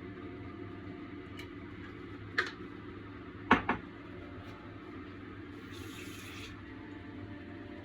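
Steady kitchen hum with two sharp metal knocks about a second apart, a spatula striking the wok while the sauce is stirred and thickened with cornstarch, and a brief hiss a little later.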